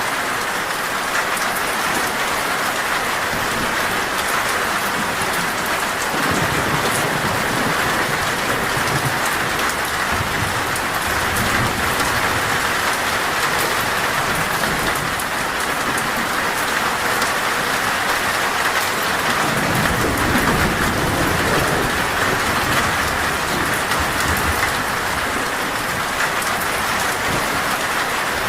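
Heavy rain falling steadily on a metal roof, a dense even hiss, with low rolls of thunder rumbling about six seconds in and again around twenty seconds in.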